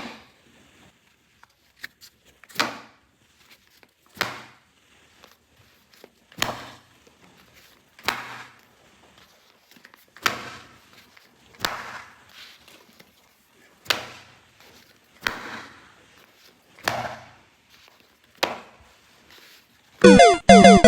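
Handling of plastic toy playset pieces: about eleven sharp taps, each followed by a brief rustle, roughly every one and a half seconds. About a second before the end, a toy's electronic jingle of falling tones starts loudly.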